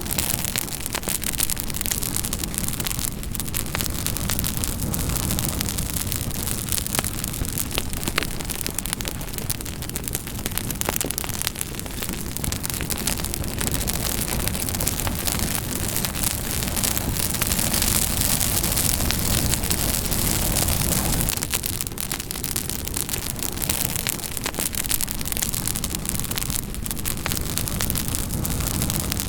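Campfire burning steadily, wood crackling and popping over a low roar of flames.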